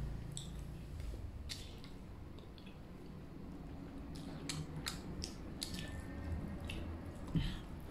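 Close-up mouth sounds of chewing a soft steamed meat bun, with wet smacking clicks, and a sip through a straw from a milk carton about six seconds in. A single soft thump near the end is the loudest moment.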